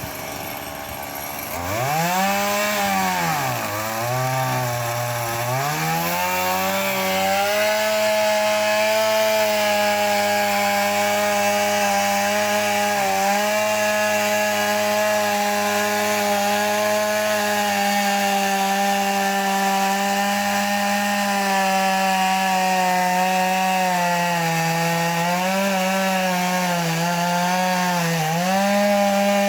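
Chainsaw revving up and down a few times, then held at high revs while cutting into a tree trunk to fell it. Its pitch dips slightly now and then under the load of the cut, most noticeably near the end.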